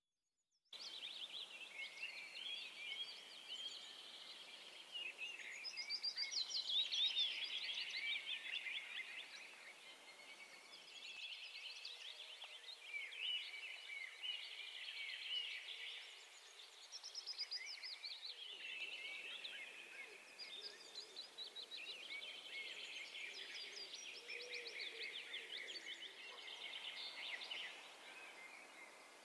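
Several songbirds singing at once: a busy, overlapping mix of quick chirps and trills over a faint background hiss. It starts abruptly just under a second in.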